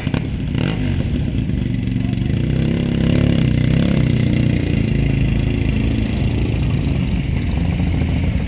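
Motorcycle engine running steadily, growing a little louder about three seconds in.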